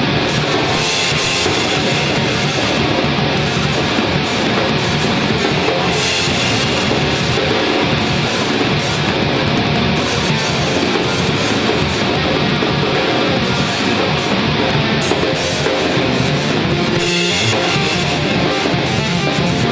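Loud, steady rock music with guitars and a drum kit, heavy-metal in character.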